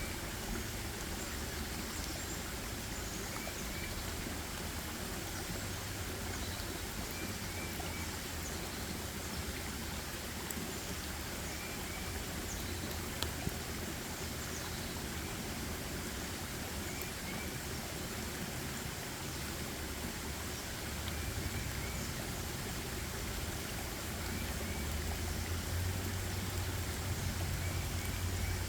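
Forest ambience: a steady rushing of flowing water, with a small bird repeating a short two- or three-note chirp every few seconds. A low rumble grows louder near the end.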